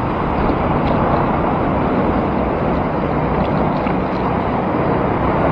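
Steady wind rushing over the microphone of a moving bicycle, with road traffic running underneath.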